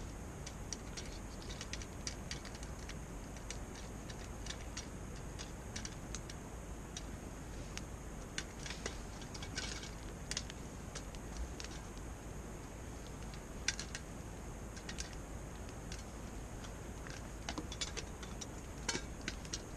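Popcorn kernels popping in a small pot of hot oil: irregular, scattered sharp pops, some in quick little clusters, over a steady high hiss.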